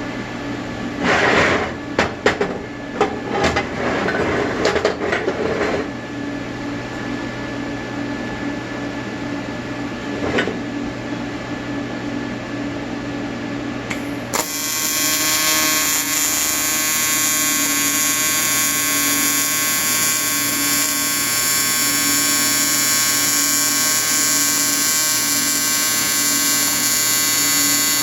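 A few clicks and knocks of metal parts being handled over a steady low hum, then about halfway through a welding arc strikes and buzzes steadily. The buzz is typical of TIG welding an aluminium intake.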